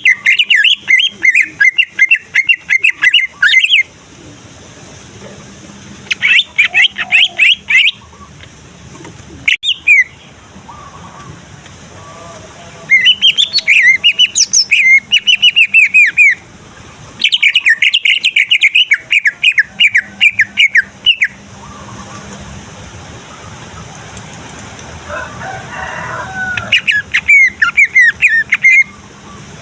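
Male cucak ijo (green leafbird) singing in loud bursts of rapid high notes: six phrases of one to four seconds each, with pauses between them. This is the agitated, full song used to provoke other males.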